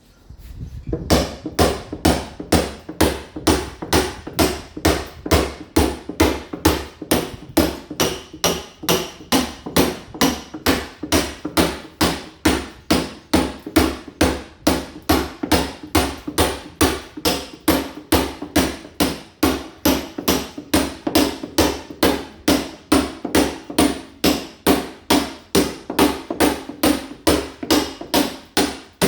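Hammer blows chipping a masonry wall, a steady train of sharp knocks at about three a second that starts about a second in. The wall is being roughened to key it for ceramic tile.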